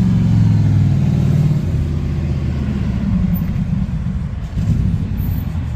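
A car engine running with a deep, steady sound, easing off slightly about a second and a half in.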